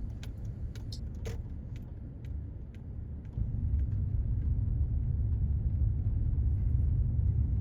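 Car road rumble heard from inside the moving car, a steady low rumble that gets louder about three seconds in, with a few light clicks or rattles in the first seconds.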